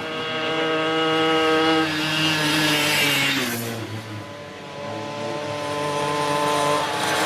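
Vintage motorcycle engines running at a steady pitch, with the engine note dropping about three and a half seconds in before settling again.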